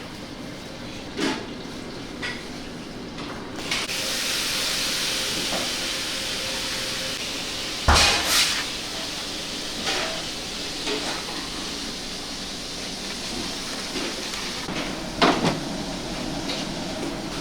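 Kitchen work sounds: scattered knocks and clatter, the loudest about halfway through, over a steady hiss that comes in about four seconds in.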